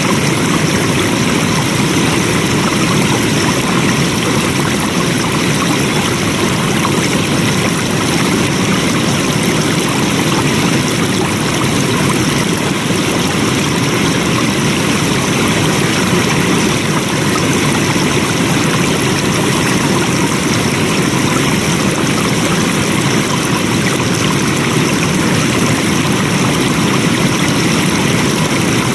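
Flowing water: a steady, unbroken rush of a stream, even in level throughout.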